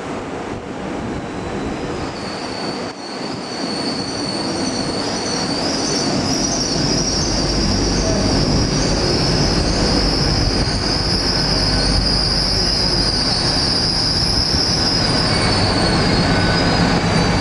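Great Western Railway Class 800 train arriving at a platform, with a steady high-pitched squeal starting about two seconds in as it slows. A low rumble of the passing carriages grows beneath it as they run close by.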